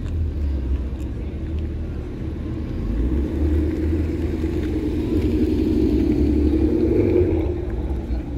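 A motor vehicle running over a steady low rumble, swelling louder for a few seconds in the middle before easing off.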